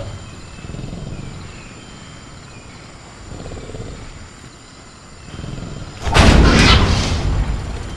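Metal cage rattled and banged hard, a sudden loud crashing burst about six seconds in that lasts about two seconds. Before it there is a quieter stretch of faint jungle ambience.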